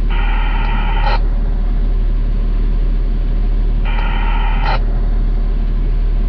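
Garbage truck's diesel engine idling steadily, heard from the cab. Twice, at the very start and again about four seconds in, a short electronic buzz lasts about a second and cuts off sharply.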